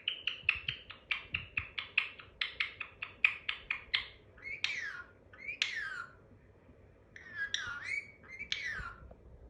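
Pet parrot calling: a quick run of short, repeated chirps, about four or five a second for roughly four seconds, then two whistles that fall steeply in pitch, and a swooping whistle near the end.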